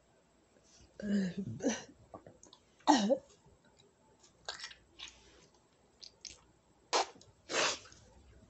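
A person chewing food close to the microphone: a string of short, separate mouth sounds, with a brief throaty sound about a second in and a louder one about three seconds in.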